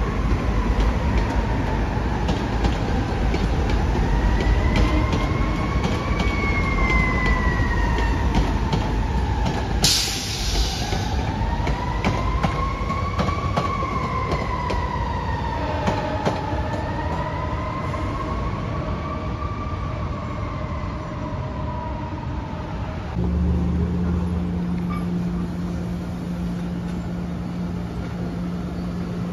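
SEPTA Regional Rail electric train passing with a low rolling rumble, under a wailing tone that slowly rises and falls. About 23 s in, a steady low hum follows as a SEPTA trolley car turns toward the camera.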